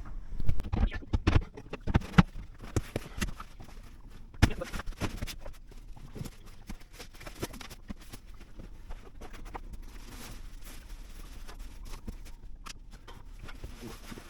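A run of irregular knocks and clicks, heaviest in the first few seconds. It thins out into a steady low background noise after about five seconds.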